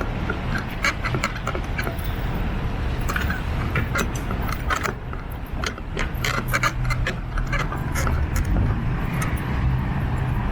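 Umbrella creaking: many short, irregular squeaks and clicks over the low, steady rumble of street traffic.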